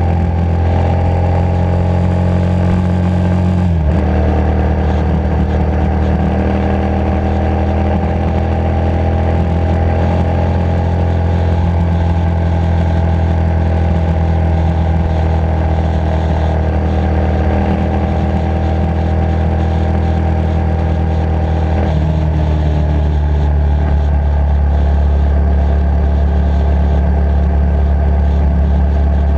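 Motorcycle engine running under way, heard from the bike itself. Its note changes abruptly about four seconds in and again about 22 seconds in, after which the pitch climbs slowly, as with a gear change followed by acceleration.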